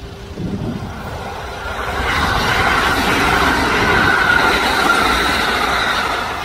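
Kintetsu electric train passing on the rails. Its running noise builds from about two seconds in, is loudest around four to five seconds in, and eases off near the end.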